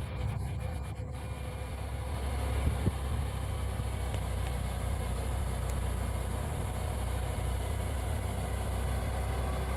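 Heavy truck's engine running steadily under a heavy load as it crawls slowly up a steep grade, a low rumble with one short knock about three seconds in.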